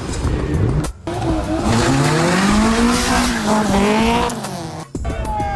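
Car engine revving hard: its pitch climbs, holds high for a couple of seconds and then drops, with tyres squealing over it. The sound breaks off sharply about a second in and again near the end.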